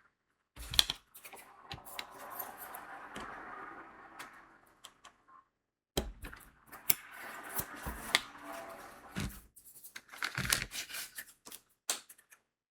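Crystal diamond-painting beads rattling and clicking against a plastic tray, in two bouts of several seconds, each beginning with a sharp click.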